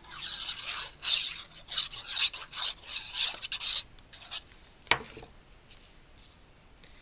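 Paper scratching and rubbing in quick repeated strokes, as glue is worked onto a cardstock cut-out and it is pressed down, then a single sharp click about five seconds in.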